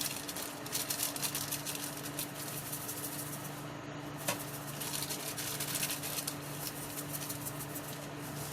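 Soup pot of water and chicken on the stove, with a dense, irregular crackle of faint ticks over a steady low hum, and one sharper click about four seconds in.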